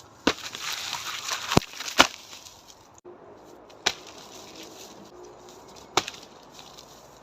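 Sharp knocks of karate strikes landing on a dead tree trunk, five in all: three in the first two seconds with rustling between them, then two more about two seconds apart.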